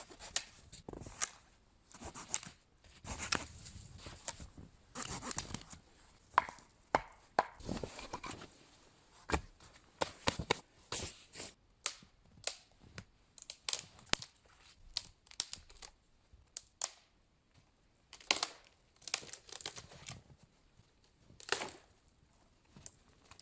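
Wood being broken up by hand for a campfire: a long run of irregular sharp cracks and knocks, with short bouts of tearing and rustling between.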